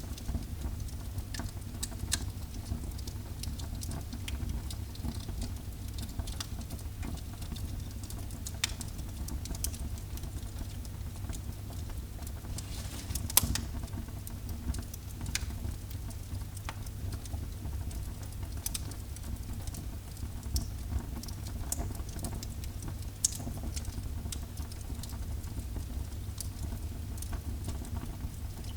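Wood fire in a fireplace crackling, with a steady low rumble of burning under irregular sharp pops and snaps; a louder crack comes about halfway through.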